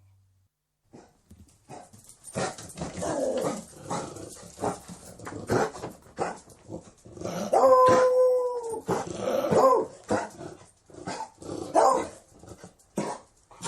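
A beagle giving a run of short barks and growly calls, with one longer held call about halfway through.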